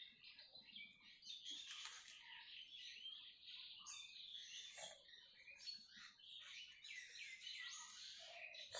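Faint chirping of small birds, many short high calls overlapping without a break.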